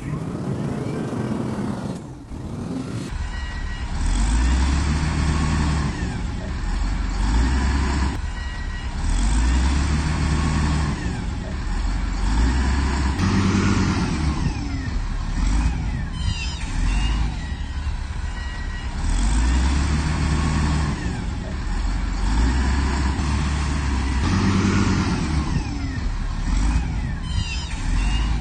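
Heavy earthmoving machine's diesel engine revving up and dying back again and again, every few seconds. Short metallic clatters come about halfway through and near the end.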